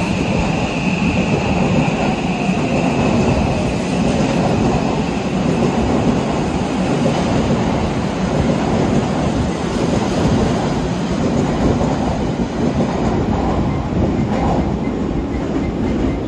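Odakyu 3000-series electric train running through an underground station at speed without stopping, with a loud, steady rumble of wheels on rails. A high whine in the first few seconds fades out.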